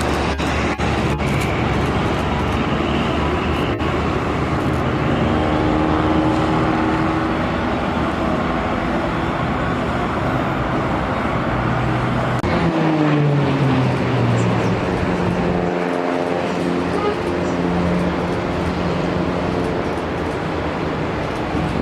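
Military aircraft flying past, a loud continuous engine noise whose pitch falls away as it passes, about halfway through.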